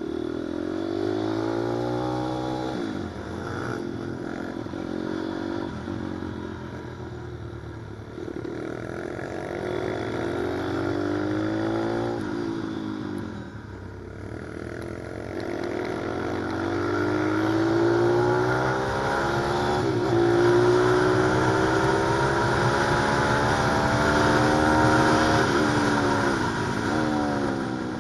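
Pit bike's single-cylinder engine ridden hard around a track: the pitch climbs repeatedly and drops sharply at each gear change or throttle lift, easing off briefly around halfway before revving higher again.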